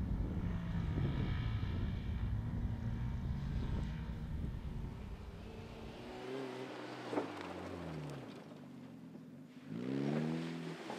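Off-road competition car engine: a low, rough rumble for about the first six seconds, then the engine revving up and down several times, with the biggest rise in revs near the end.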